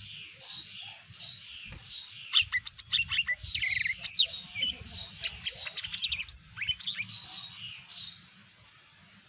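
Cucak ijo (green leafbird) singing: a few repeated short chirps, then a loud, rapid run of varied whistled notes, sharp clicks and quick sweeps for several seconds, fading out near the end.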